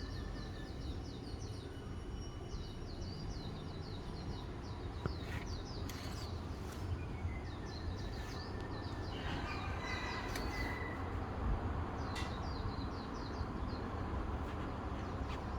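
Outdoor morning birdsong: small birds chirping in quick, high trilled bouts again and again, with a few clearer whistled notes about two thirds of the way through, over a steady low background rumble.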